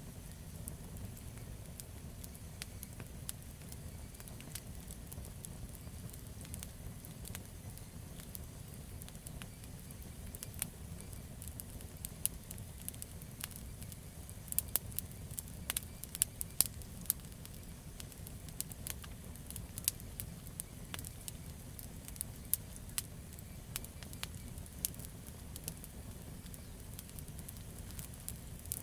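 Campfire of burning wood crackling and popping over a low steady rumble of flames, with a denser run of sharp pops about halfway through.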